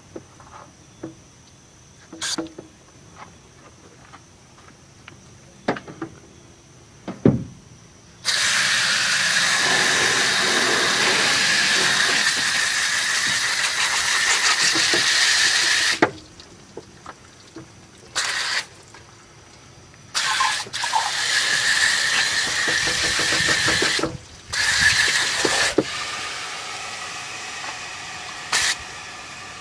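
CRC Heavy Duty Pro-Strength degreaser aerosol can spraying in long hissing bursts, with a faint whistle in the spray. The first is about 8 s long, followed by a short burst and several more. A few light clicks and knocks come before the spraying starts.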